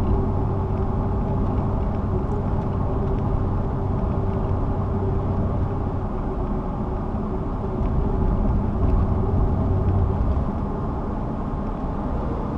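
Steady road noise of a car driving at speed: a continuous low rumble of tyres and engine with a faint steady hum.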